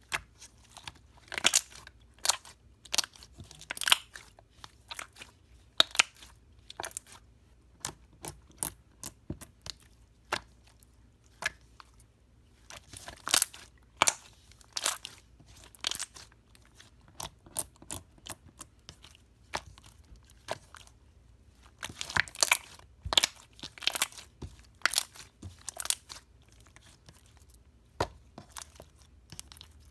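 Slime being squeezed, poked and stretched by hand, making irregular sticky clicks, pops and crackles, bunched into busier clusters now and then.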